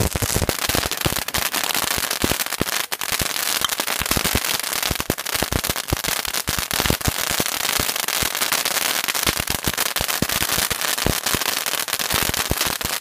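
Fireworks crackling and popping rapidly and irregularly, a steady dense stream of sharp cracks that keeps going without a break.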